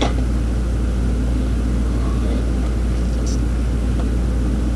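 Steady low hum in the room, with a few faint light knocks of tools being set down in a cart.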